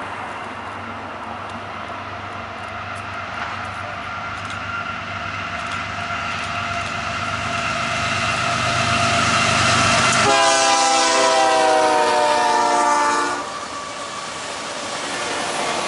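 BNSF freight train's diesel locomotives approaching, their engine rumble and rolling noise building steadily; about ten seconds in the locomotive's multi-chime air horn sounds for about three seconds, the loudest part, then the autorack cars roll past.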